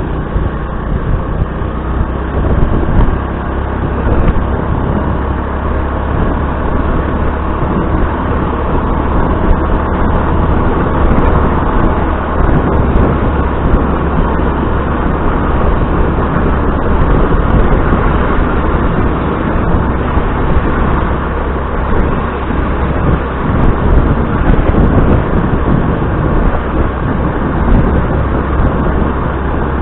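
Motor scooter riding along a busy town road: steady engine and road noise, with passing traffic.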